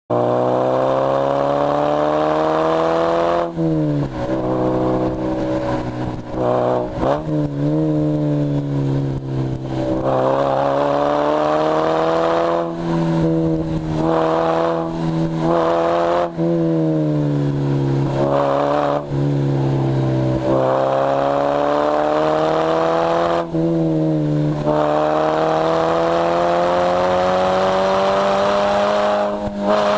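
Lotus Elise S1 111S's 1.8-litre Rover K-series VVC four-cylinder engine driven hard, heard from the open cockpit. The revs climb steadily under acceleration several times, each climb ending in a sudden drop at a gear change, with other stretches where the pitch falls off more gradually as the car slows.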